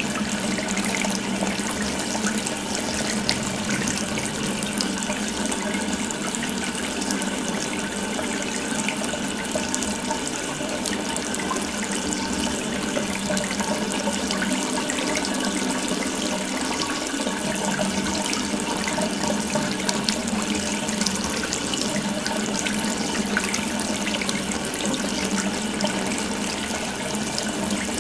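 Water running steadily from an open tap, a continuous splashing stream.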